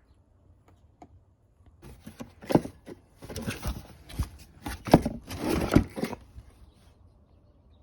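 Handling noise from about two to six seconds in: packaging rustling, with several knocks, as the new slotted brake rotors are handled in their box.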